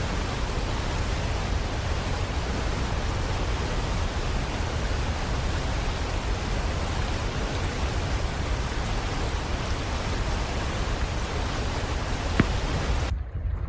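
Seljalandsfoss waterfall crashing down close by: a steady, dense rush of falling water. It cuts off abruptly near the end.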